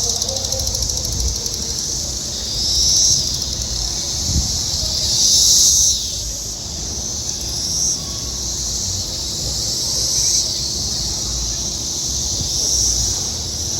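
Chorus of 17-year periodical cicadas: a continuous, noisy high buzz that swells louder and fades back every two or three seconds.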